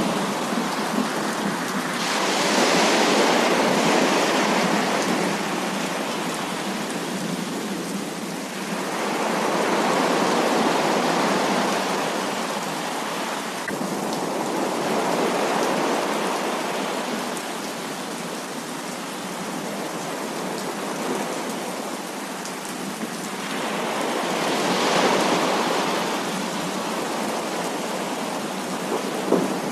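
Heavy rain falling steadily, a dense hiss that swells louder and eases off several times.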